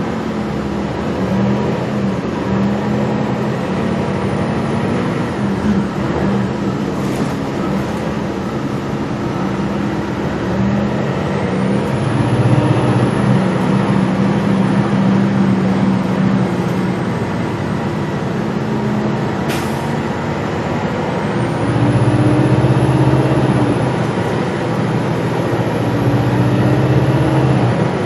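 Gillig Low Floor city bus under way, its engine note rising and falling as it pulls away and speeds up, with a high whine that climbs and then holds, three times. Two sharp knocks come through, one about 7 seconds in and one near 19 seconds.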